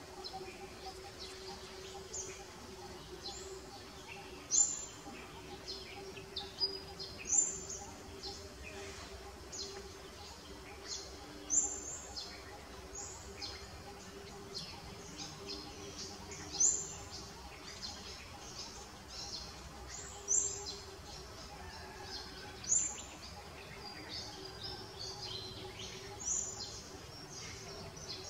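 A bird calling with short, high chirps every few seconds, each dropping quickly in pitch, over a faint steady low hum.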